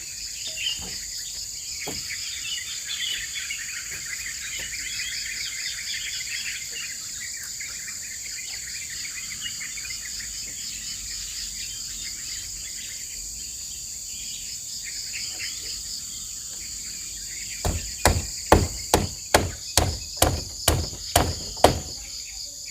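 Steady shrill insect chorus with some birds chirping. Near the end, a quick run of about eleven sharp hammer blows, roughly three a second, as a nail is driven into the fence.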